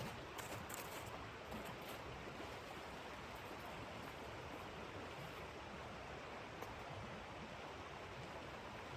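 Steady rushing noise of blizzard wind, even and unbroken, with a few faint ticks in the first couple of seconds.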